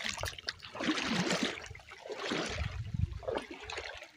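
Water running and trickling in a highland stream, swelling louder twice.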